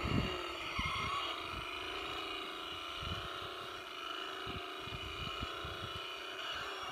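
A steady motor drone with several even pitch lines, running unchanged throughout, with irregular low thumps of wind on the microphone.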